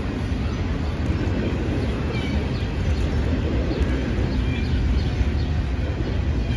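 Double-stack intermodal container freight train rolling past, a steady rumble of wheels on the rails, with a few faint, short, high-pitched chirps over it.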